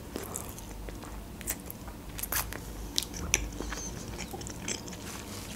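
A person chewing a bite of chicken wing close to the microphone: faint, irregular small clicks from the mouth.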